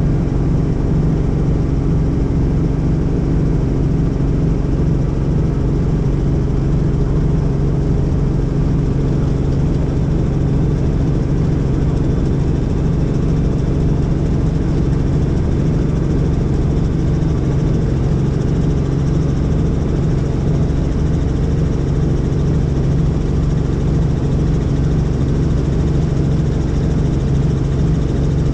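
Helicopter engine and rotor running steadily: a loud, even drone with a strong low hum that does not change.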